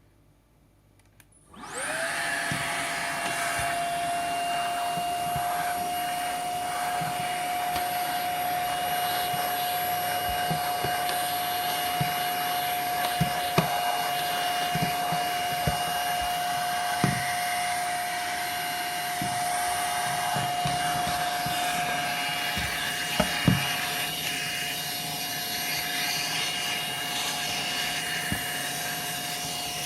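Hitachi PV-BFH900 cordless cyclone stick vacuum switched on: its motor spins up within a second to a steady high whine and keeps running, with a few light clicks along the way.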